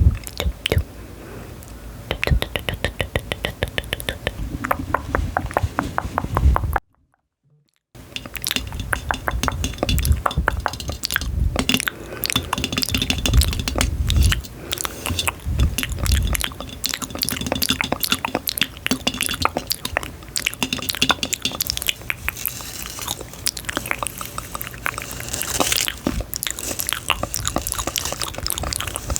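Close-miked chewing and biting, with crisp clicks and crackles. There is a run of fast, even clicks in the first few seconds and a full second of dead silence about seven seconds in.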